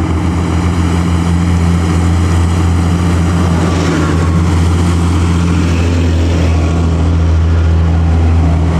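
Large intercity bus's diesel engine running with a steady low drone, with some tyre and road noise swelling about halfway through.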